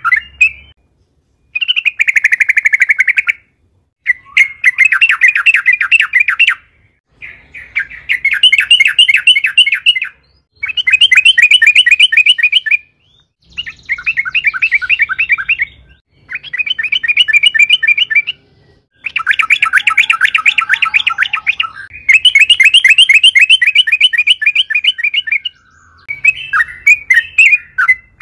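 Yellow-vented bulbul (trucukan) singing a fast chattering song: about nine bursts of rapidly repeated notes, each a couple of seconds long with brief pauses between them. Near the end the song breaks into looser, more varied chirps.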